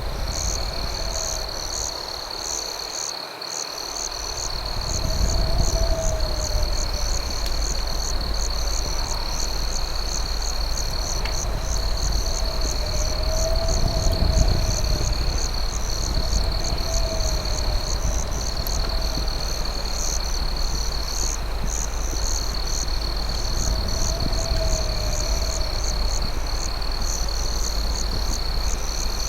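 Night insect chorus: a steady high cricket trill with a faster pulsing chirp above it. A lower wavering call repeats every couple of seconds, over a low rumble.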